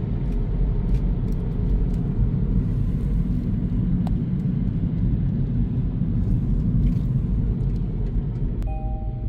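Scania truck on the move: a steady low rumble of engine and road. Near the end a repeating electronic tone at two pitches starts.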